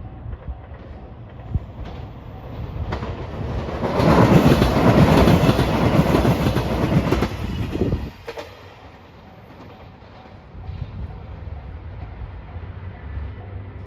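A level-crossing bell rings in a steady repeating pattern while a JR Shikoku 2700 series diesel express train passes over the crossing, building to a loud rush of engine and wheel clatter from about three to eight seconds in, then dropping away sharply.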